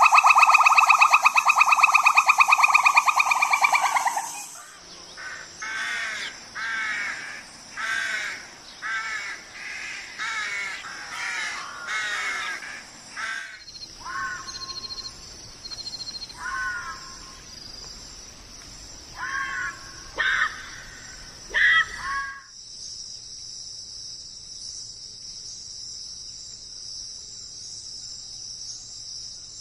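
A run of different animal sounds. A loud, rapidly pulsing buzz lasts about four seconds. It is followed by a long series of harsh crow-like caws, each under a second, repeating steadily and then more sparsely. Near the end a steady high chirring, like crickets or other insects, takes over.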